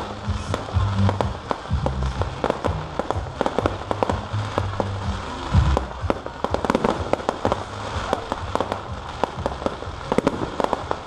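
Many sharp, irregular pops and cracks in quick succession, over background music with a bass line.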